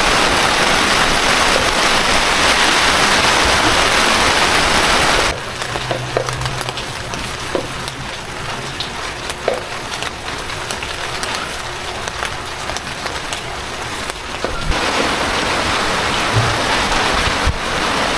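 Heavy rain falling, a dense steady hiss. It cuts suddenly to a lighter patter with scattered drips and taps about five seconds in, then returns just as suddenly to the heavy hiss near the fifteen-second mark.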